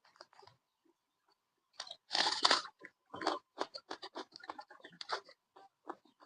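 Close-up eating sounds of pork being chewed: after a short pause, one loud crunching bite about two seconds in, then a run of quick, short chewing crunches.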